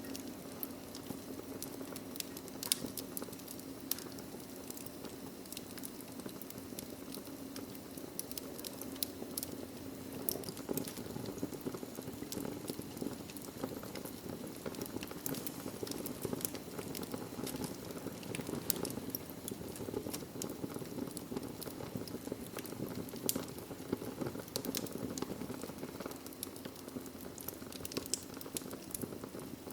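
Wood fire burning in a fireplace: steady low rush of flames with frequent irregular crackles and pops from the burning logs.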